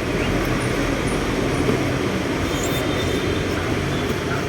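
Steady low rumble of background noise, even in level throughout, with no clear single event.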